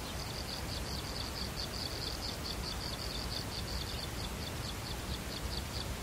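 Weaver nestling begging inside its woven grass nest while being fed: a rapid, even series of short high-pitched chirps, about six a second, that stops shortly before the end.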